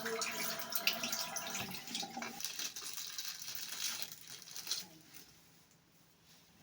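Water running from a tap into a sink, then stopping about five seconds in.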